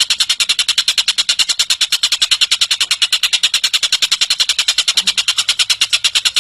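Tengek cililin bird giving a steady, high-pitched rattling trill of sharp notes, about ten a second, running without a break.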